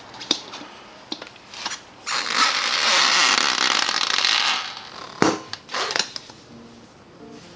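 Metal tools and parts clinking in a few sharp taps, with a loud hiss lasting about two and a half seconds in the middle.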